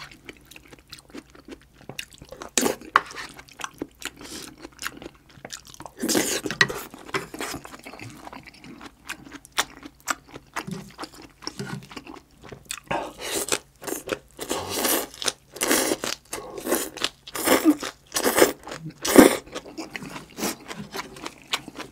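Close-miked chewing and crunching of kimchi and curry rice: a run of short crunchy bites, coming thicker and louder in the second half.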